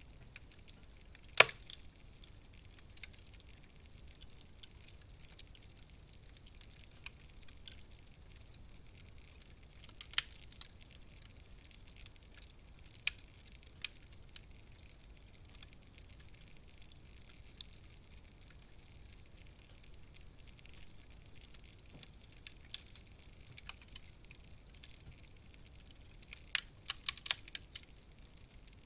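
Wood fire in a fireplace crackling: a soft, steady hiss with scattered sharp pops, one loud pop about a second and a half in and a quick run of pops near the end.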